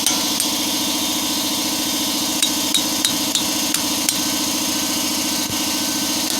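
Hammer striking a steel punch to drive out a rear brake pin: two sharp taps at the start, then a run of about six taps a third of a second apart around the middle. A steady engine hum runs underneath.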